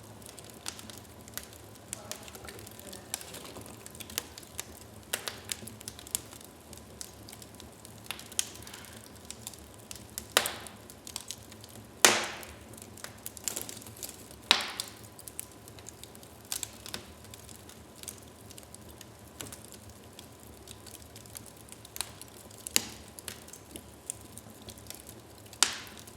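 Wood fire in a fireplace crackling steadily, with many small snaps and a handful of louder pops from the burning logs, the loudest about halfway through.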